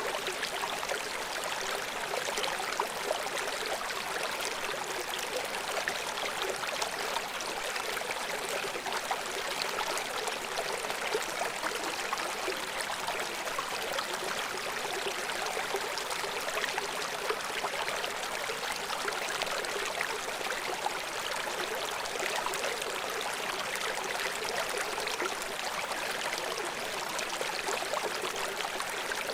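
River water flowing steadily over rocks, a constant rushing and splashing with no low rumble.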